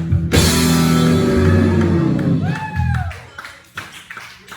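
A rock band's final chord struck with a cymbal crash just after the start, ringing out and fading over about three seconds as the song ends, followed by a few shouts from the pub crowd.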